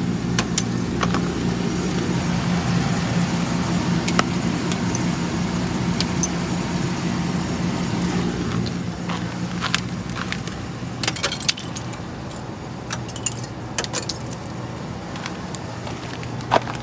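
Sierra pickup truck's engine idling with a steady low hum, with scattered sharp clicks and light metallic jingling on top. The hum drops a little about halfway through, and the clicks come more often in the second half.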